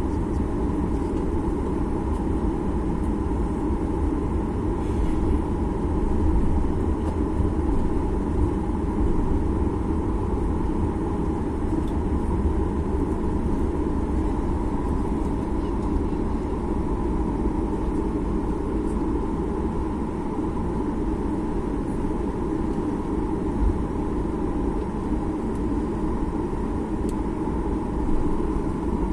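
Steady cabin noise inside a Boeing 737 MAX 8: its CFM LEAP-1B engines and airflow give a constant deep rumble with an even hum over it.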